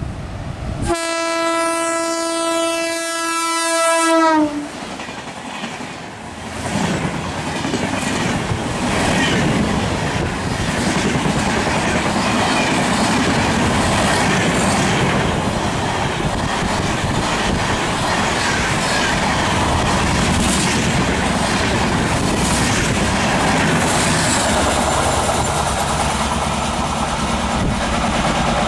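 A train horn blasts for about three seconds, dropping in pitch as it ends. Then a passing express train runs by with its wheels clicking rhythmically over the rail joints.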